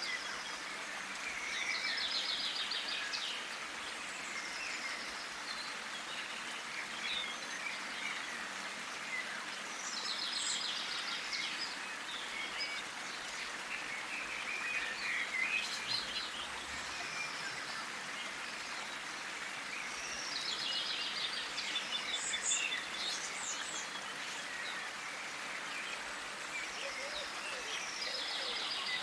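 Songbird singing short phrases of fast repeated high notes, a phrase about every eight to ten seconds with a few fainter chirps between, over a steady outdoor hiss.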